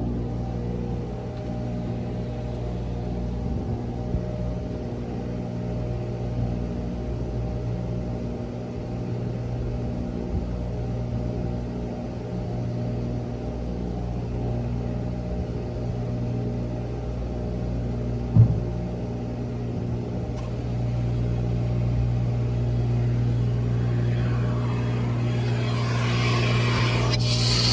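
A motor running steadily with a low, even hum, and a single knock about two-thirds of the way through. A brighter hiss swells near the end.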